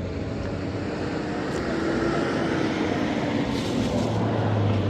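A motor vehicle's engine running close by over steady street traffic noise, its hum sagging slightly in pitch midway.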